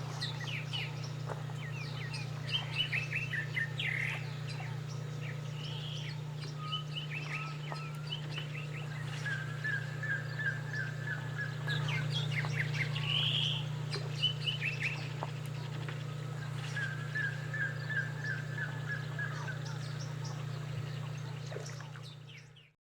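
Several wild birds chirping and calling, with a rapid trill of about ten notes given twice, over a steady low hum; it all fades out near the end.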